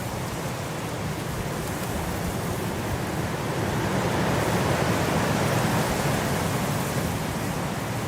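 Blizzard wind blowing as a steady rushing noise, building into a stronger gust about halfway through and easing off slightly near the end.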